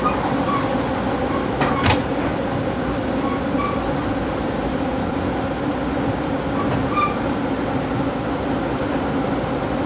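A passenger train running, heard from inside the coach: a steady rumble with a constant hum, and a single sharp knock about two seconds in.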